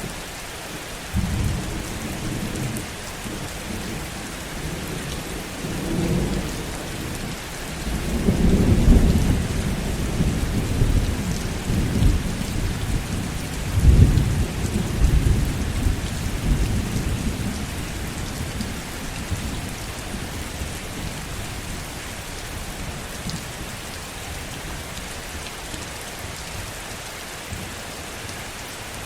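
Steady heavy rain with rolling thunder: a low rumble builds about a second in, swells loudest between about 8 and 17 seconds with a sharper crack near 14 seconds, then fades, leaving only the rain.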